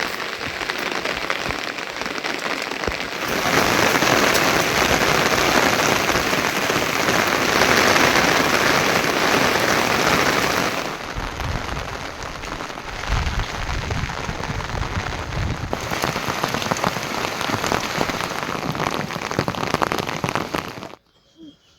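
Heavy monsoon rain pouring down, growing louder about three seconds in and easing a little around eleven seconds, then cutting off suddenly near the end.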